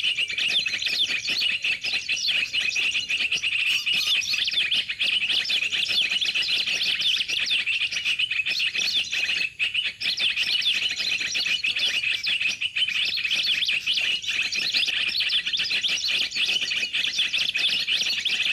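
Rapid, continuous chirping of a recorded sirtu (common iora) lure call played through a portable speaker. It cuts off suddenly at the end as the speaker's battery runs flat.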